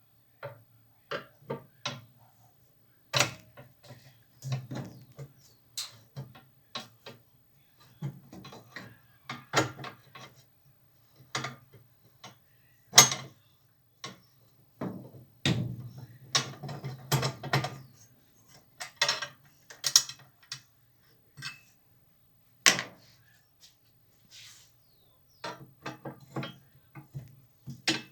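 Hand tools and loose parts being handled while a washing machine is taken apart: irregular clicks, knocks and rattles, some in quick clusters, over a faint low hum.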